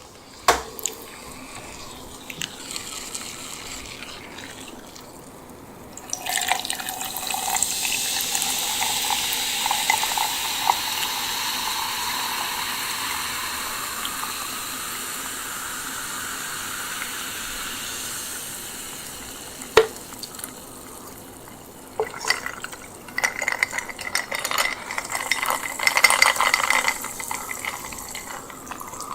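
A drink poured into a glass in a steady stream for about thirteen seconds, its pitch rising as the glass fills. Then a single sharp knock, and a run of short, uneven wet sounds in the last several seconds.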